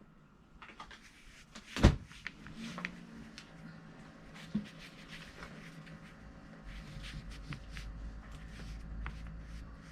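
Small clicks and knocks of objects being handled and set down on a table, with one sharp knock about two seconds in and a smaller one a few seconds later; a low hum comes up near the end.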